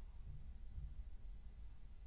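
A quiet pause holding only a faint, steady low hum of room tone.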